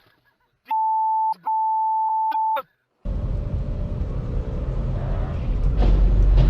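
A steady electronic beep tone, held for about two seconds with a brief break in the middle. About three seconds in it gives way to the steady, louder rumble of a car driving, heard from inside the vehicle.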